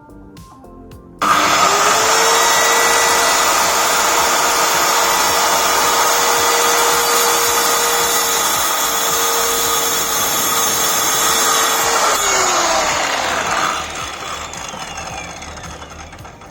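Stanley SC16 1600 W circular saw starting suddenly about a second in and running at full speed with a steady whine for about eleven seconds. It is then switched off, and its pitch falls as the blade spins down and fades.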